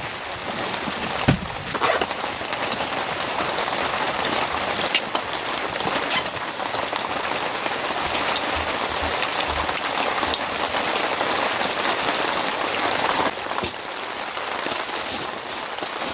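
Steady rain pattering, with a few sharper drop hits here and there.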